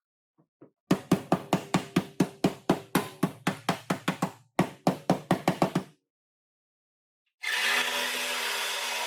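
Rapid hammer blows on sheet metal, about five a second, in two runs with a short break between them. Near the end a power tool starts and runs steadily.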